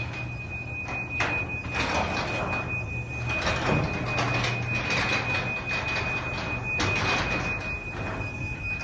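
LiftMaster garage door opener running: a steady motor hum with the door clattering and rattling as it travels along its track.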